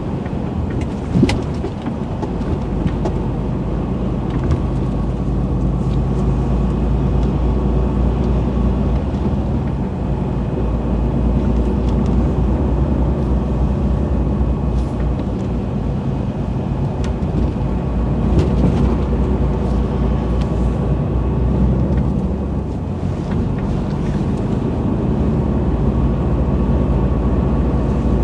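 Truck on the move: a steady low engine drone with road noise, and a single sharp click about a second in.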